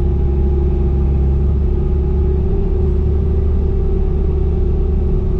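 Bobcat E35 mini excavator's diesel engine running steadily, a deep even hum with a held tone over it.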